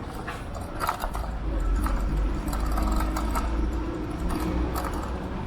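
Ride on an electric scooter: wind rumbling on the microphone, with frequent clicks and rattles from the moving scooter. The wind rumble grows stronger about a second in and eases near the end.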